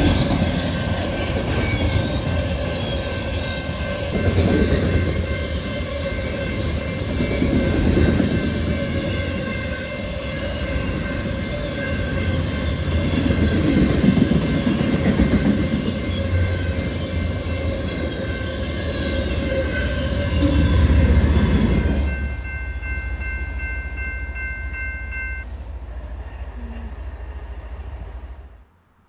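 BNSF freight train rolling past: a steady rumble of the train with swells every few seconds and high steady ringing tones over it. The sound thins abruptly about three-quarters of the way through. The ringing stops soon after, and the rumble cuts off just before the end.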